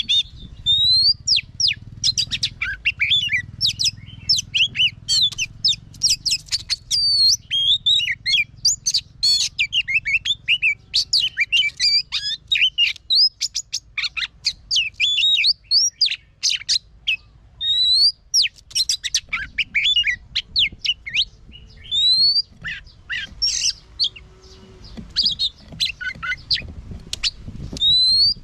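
Oriental magpie-robin singing: a long, unbroken run of quick, varied whistles, chirps and sweeping notes.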